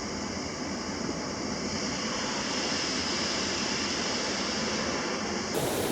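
Istobal M18 automatic car wash gantry spraying the car, a steady rushing hiss of water jets and machinery heard from inside the car, growing slightly louder about two seconds in and turning suddenly brighter near the end.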